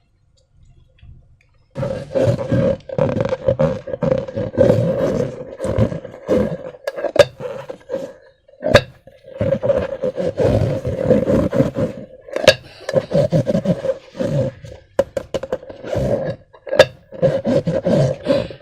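Hands squeezing and rubbing slime-filled rubber balloons: a rough, squeaky rubbing with wet squishing and a few sharp snaps, starting about two seconds in.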